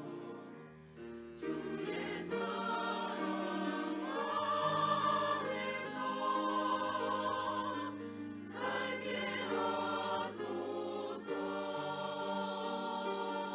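Church choir singing a hymn in several parts with long held chords, coming in fuller about a second and a half in.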